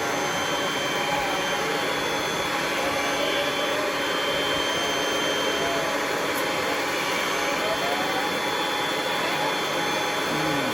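Kirby vacuum cleaner running steadily as it cleans, a continuous rush of air with a thin high motor whine over it.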